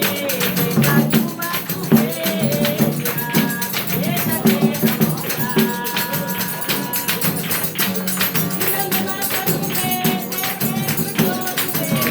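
Chula samba de roda music: singing over a fast, dense percussion rhythm, with held melodic notes.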